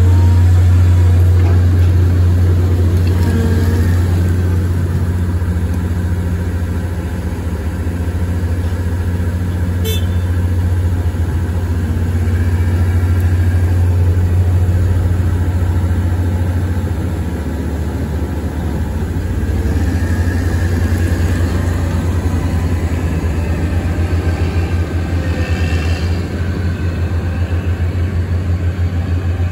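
Caterpillar 120M motor grader's diesel engine running with a steady low drone; about halfway through the drone turns into a fast, even pulsing.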